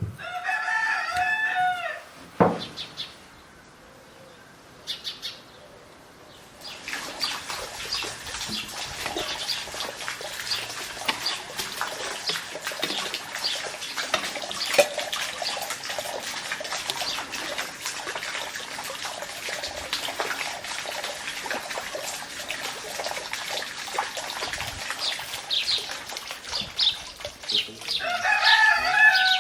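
A rooster crows once at the start and again near the end, each crow about two seconds long. A single sharp knock follows the first crow. From about a quarter of the way in, a dense crackle of many small clicks runs underneath.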